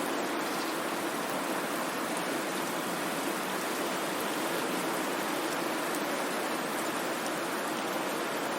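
Steady white noise: an even, unbroken hiss with no rhythm or change.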